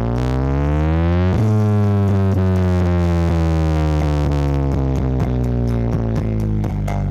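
Electronic music played through a sound-system rig under test: a deep, distorted synth bass note sweeps up for about a second, then slides slowly down and holds, with light beats ticking over it.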